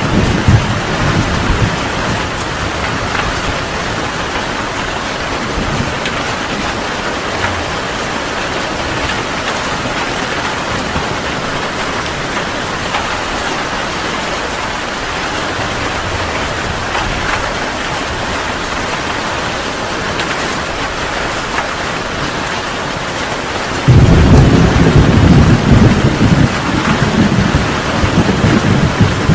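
Heavy rain falling in a steady, dense hiss. A low thunder rumble fades out at the start, and near the end a much louder rumble of thunder breaks in suddenly and rolls on for several seconds.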